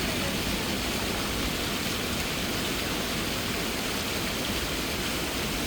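A steady rushing noise, even throughout, with no distinct calls or knocks standing out.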